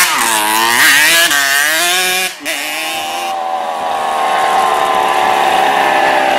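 Honda CR 125's single-cylinder two-stroke engine, its exhaust tip removed, revving up and down. About two and a half seconds in the throttle drops off sharply, then the engine runs steadily at raised revs.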